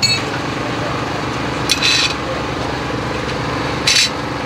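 A car engine running steadily, with three brief high-pitched sounds: one at the start, one just under two seconds in and one near the end.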